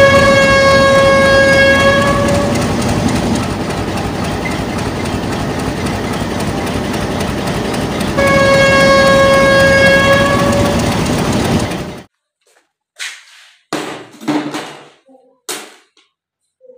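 Train running with a loud, steady rumble while its horn sounds long single-note blasts: one fades out a couple of seconds in, and a second starts about 8 s in and lasts about two and a half seconds. The train sound cuts off abruptly about 12 seconds in.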